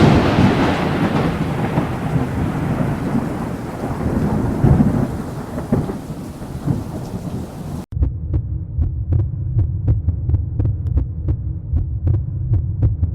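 A thunderclap rumbles and slowly fades over steady rain. About eight seconds in it cuts off suddenly, and a low throbbing hum with a steady ticking pulse takes over.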